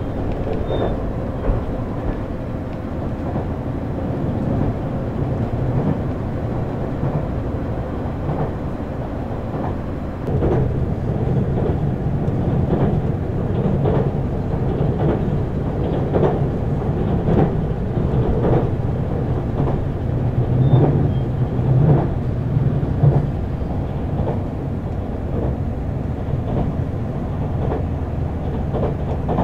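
Running noise heard aboard a JR Central HC85 series hybrid railcar at speed: a steady rumble with wheels clacking over rail joints. About ten seconds in the running noise grows louder, and the clacks come about once a second.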